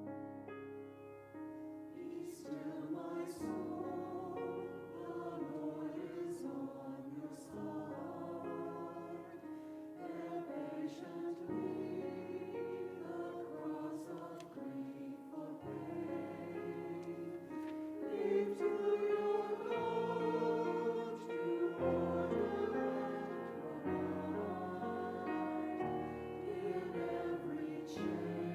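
A group of voices singing with keyboard accompaniment, slow sustained chords changing every second or two.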